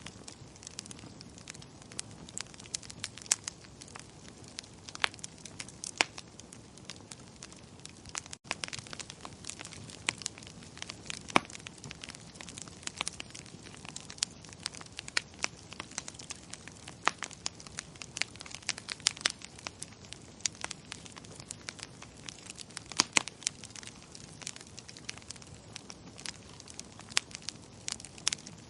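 Wood fire crackling in a fireplace: irregular sharp pops and snaps, some louder than others, over a soft steady rush.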